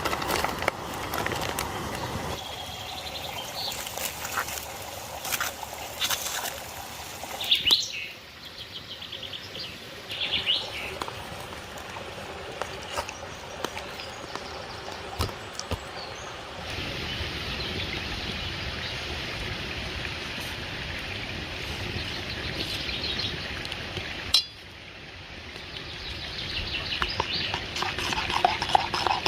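A stream flowing steadily, with small birds chirping now and then and a few sharp clicks. The water sound shifts abruptly several times.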